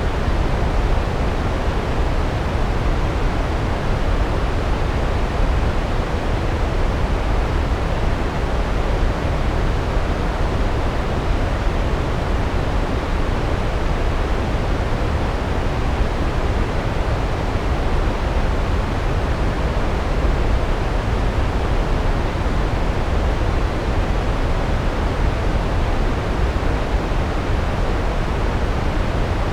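Large waterfall: a steady, even rush of falling water, heaviest in the low end, with no breaks or changes.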